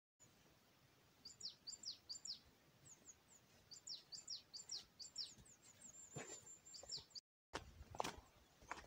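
Small songbird calling faintly: thin, high chirps that drop in pitch, repeated in quick groups of two or three. A couple of footsteps sound near the end.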